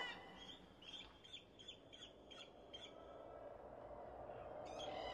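A bird calling: a quick run of about seven short, high chirps over two seconds, then another brief call near the end, over a faint steady background.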